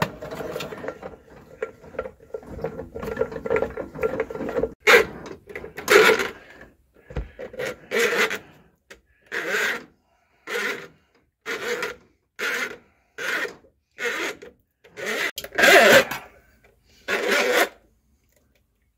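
Steel cable of a 20-foot pistol-grip drain snake rasping and scraping as it is worked through a clogged drain pipe: a fairly continuous scrape at first, then short regular strokes about one every two-thirds of a second.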